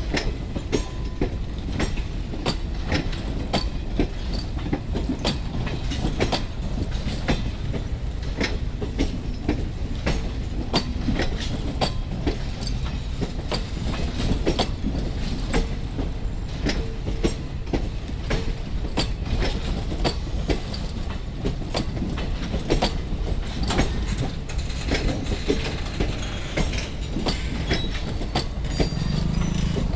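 Indian Railways high-capacity parcel van train running on the track, its wheels clattering over the rail joints with many sharp clicks over a steady low rumble.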